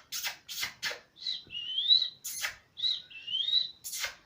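Pet parrot calling: a few short raspy squawks, then two rising whistled chirps separated and followed by further raspy squawks.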